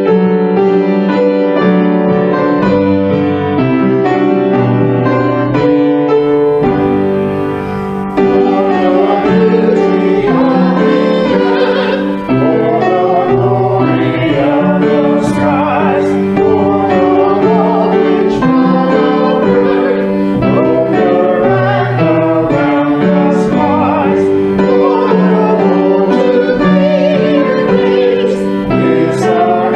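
Hymn music: piano chords, joined by singing voices about eight seconds in.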